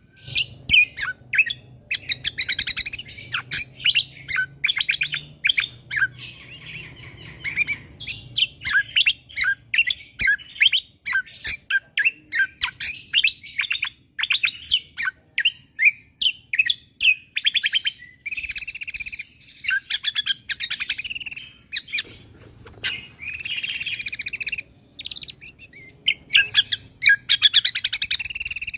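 Cucak kombo (kecial kombok) songbird singing vigorously: quick, closely packed bursts of high, sharp chirps, breaking twice into longer fast trills.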